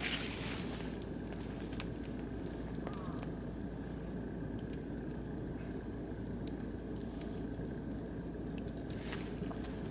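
Oak and beech wood fire burning in a barbecue grill, with scattered small crackles and pops over a steady low rush.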